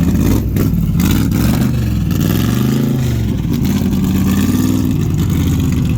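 Supercharged small-block Chevy V8 with a 6-71 blower and a big cam running at a choppy, lumpy idle, revved up and back down about a second in and again around three seconds in. The owner says it is running a little low on fuel.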